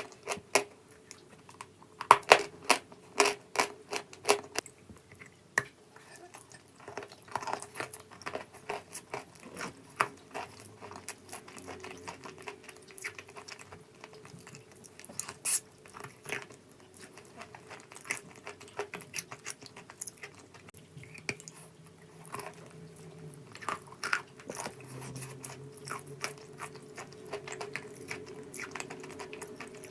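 Close-up crunching of chalk: a run of sharp, crisp crackles, densest and loudest in the first few seconds, then sparser and quieter.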